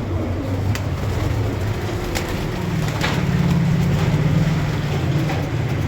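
Domestic pigeons cooing over a steady low rumble, the cooing strongest from about halfway through.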